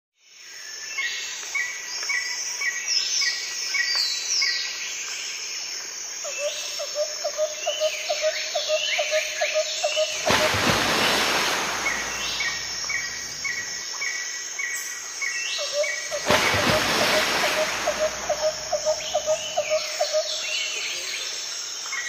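Nature ambience of birds singing: repeated high chirps and down-slurred whistles, with a lower pulsing trill in two stretches. Twice a rushing swell of noise rises over them, about halfway through and again some six seconds later, and the whole sequence repeats.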